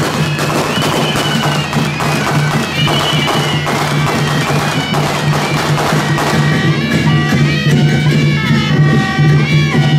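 Traditional Taiwanese temple-procession music: shrill double-reed horns (suona) play held notes, then a running melody from about six seconds in, over clattering drums and cymbals and a steady low drone.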